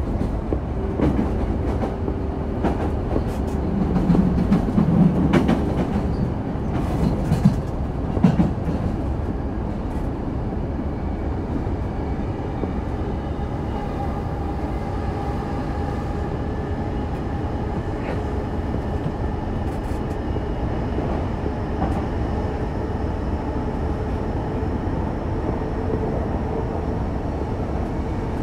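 Running noise of a Chuo Line rapid commuter train at speed, heard from inside the car: a steady rumble of wheels on rail. Over the first eight or nine seconds there are heavier rumbles and a few clacks, then the run evens out with a faint hum.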